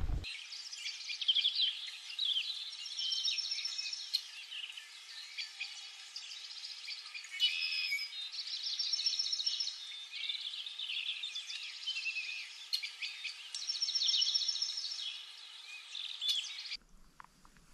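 Several birds singing, with repeated rapid trills and high chirps; it cuts off abruptly about a second before the end.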